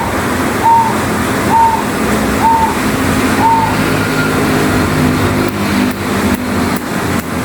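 Zebra dove (perkutut) calling: short, clear notes repeated about once a second, four times, then stopping about halfway through. A steady background rumble runs underneath.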